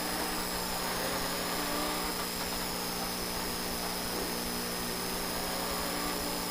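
Citroën DS3 rally car engine running at steady revs, heard from inside the cabin.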